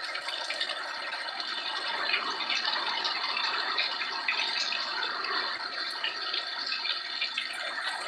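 Heavy rain falling in a steady downpour, with scattered small drip and splash ticks.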